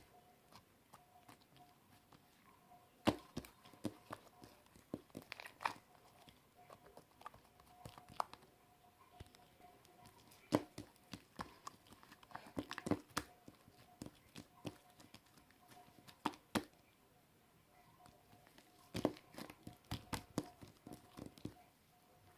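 Slime being mixed and squished by hand: sticky clicks, pops and tearing sounds that come in bunches, with quieter pauses between.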